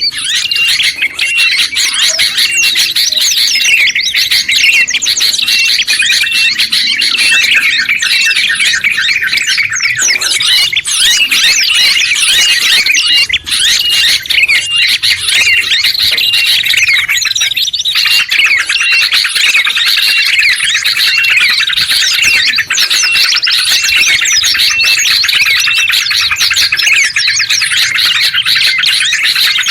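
Dense, continuous mix of several songbirds chirping and trilling over one another, a short high note repeating at even spacing through the first half.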